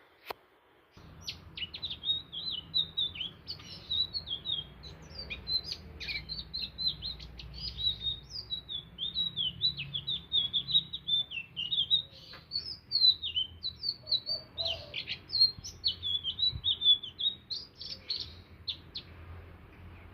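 Indigo flycatcher (sikatan ninon) singing a long, rapid, high twittering song of quick chirps and trills, starting about a second in, over a low steady hum.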